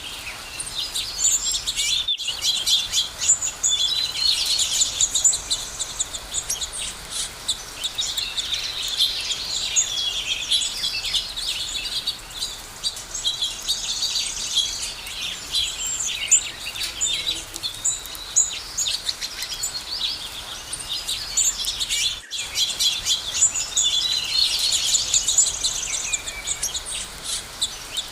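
A dense chorus of songbirds, many birds chirping and trilling at once without a break. The sound drops out for an instant twice, about two seconds in and again near the end.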